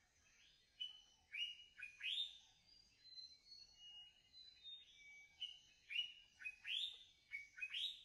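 Birds singing in the trees: a run of short, sharply sweeping chirps and a few brief clear whistles, one after another, several of them loud against a faint background hiss.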